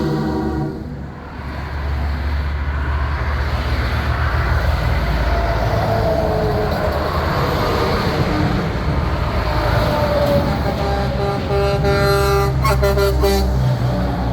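Big-rig trucks driving past with diesel engines running. A truck horn blares at the start, cuts off about a second in, and blares again for the last few seconds.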